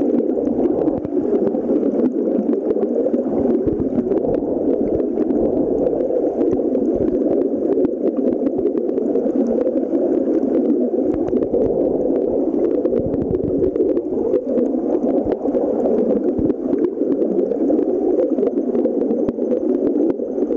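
Flowing stream water: a steady, even rush of noise that keeps up without a break.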